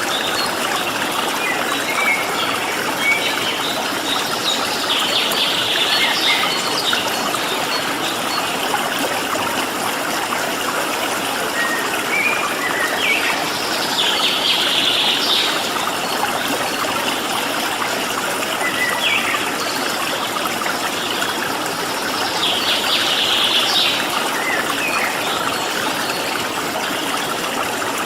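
Steady rush of flowing water with small birds chirping over it; a short burst of birdsong comes back about every nine seconds.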